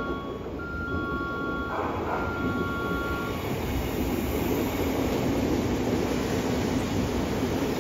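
Odakyu electric commuter train running through the station at speed without stopping: a dense rumble of wheels on rail that grows louder after about three seconds as the cars sweep past. For the first three seconds, two-tone electronic platform warning beeps sound over the approaching train.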